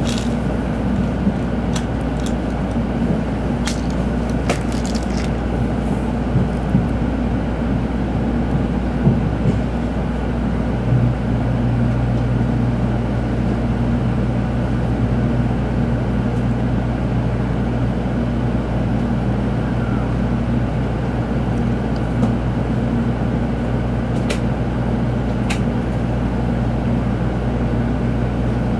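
Tokaido Shinkansen train running, heard from inside the carriage: a steady rumble with a few sharp clicks in the first seconds, and a steady low hum that joins about eleven seconds in.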